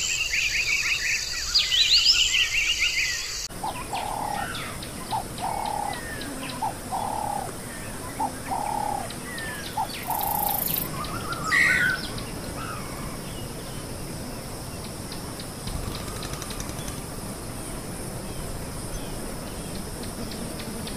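Wild birds calling: high, rising chirps for the first few seconds, which cut off abruptly, then a dove cooing about seven times in a row, with a few more chirps near the middle.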